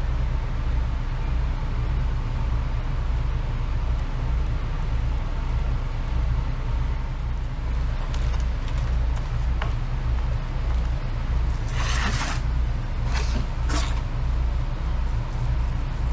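A steady low mechanical hum runs throughout. Short scraping or rustling sounds come in twice near the end.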